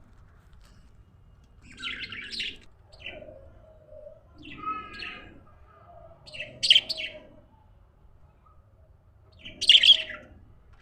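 Budgerigars chirping in short separate bursts, about five calls, the loudest two coming about two-thirds in and near the end.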